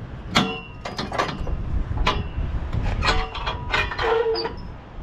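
A string of sharp metallic clanks and knocks, some briefly ringing, with a short squeak about four seconds in, from metal parts of a semi truck being handled during an oil check, over a low rumble.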